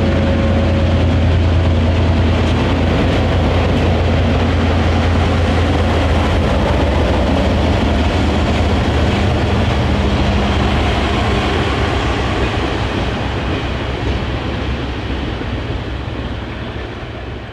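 Diesel train rolling past: a locomotive engine's low, steady hum with the noise of wheels on rail. The sound fades away over the last few seconds as the train moves off.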